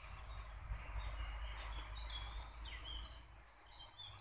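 Songbirds singing, short high chirping phrases repeating every second or so, over a low rumble on the microphone.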